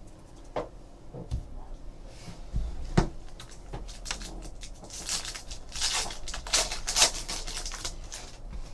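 Hands handling trading cards and a foil pack: a few light taps, then several seconds of rustling and sliding from about halfway in.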